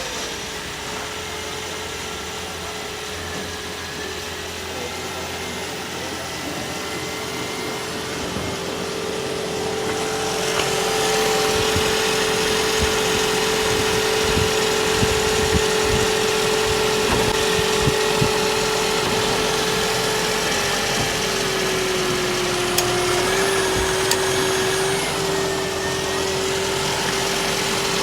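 A small motor running steadily with a constant whine, growing louder about ten seconds in and dipping briefly in pitch about three quarters of the way through, as a motor does under load.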